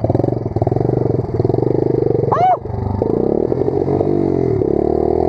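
Pit bike engine running on a dirt track as it is ridden, its pitch falling and rising with the throttle. A brief shout about halfway through.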